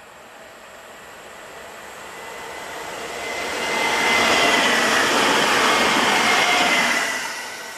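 Pesa Elf II electric multiple unit passing by on the line: a rushing noise of wheels and air that swells as it approaches, is loudest about four to seven seconds in as it goes by, then falls away sharply. A thin high whine runs through it.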